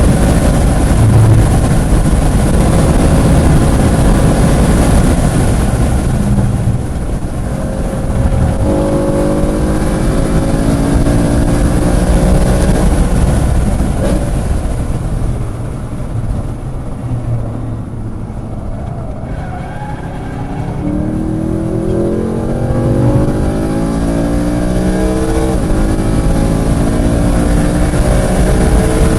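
Track car's engine at full throttle, pulling hard with its pitch climbing through the revs. It eases off and drops lower and quieter about halfway through, as if lifting for a corner, then climbs through the revs again.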